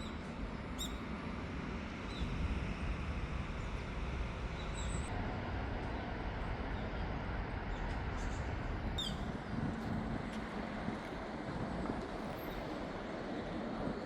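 A few short, high bird calls, each dropping sharply in pitch, about a second in and again around nine seconds, over a steady background hum of noise.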